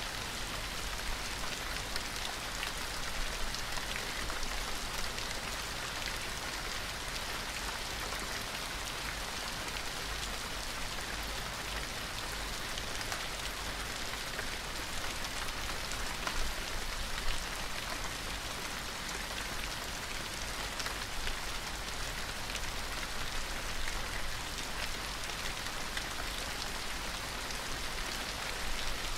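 Steady rain falling, an even hiss with many small distinct drop taps on a surface.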